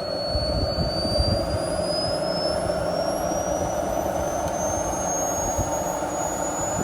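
Small turbine engine of a radio-controlled model jet running, a thin high whine climbing slowly and steadily in pitch as the engine speeds up, over a steady rushing exhaust noise. Low rumbling in the first second or so.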